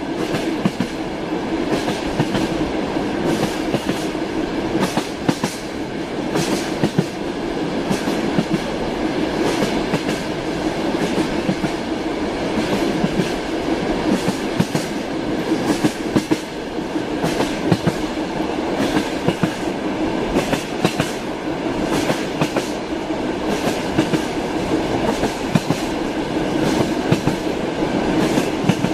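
A train running on the rails, with a steady rumble and the irregular clatter of wheels over rail joints.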